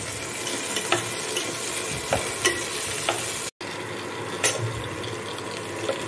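Whole potatoes frying in hot oil in a saucepan, a steady sizzle, with scattered clicks and scrapes of a steel spatula against the pan as they are turned. The sound drops out for an instant about halfway through.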